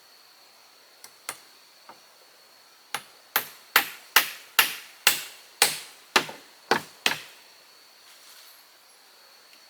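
A hand tool striking wood: a few light taps, then a run of about eleven sharp blows at roughly two or three a second that stops abruptly. Insects keep up a faint, steady high drone underneath.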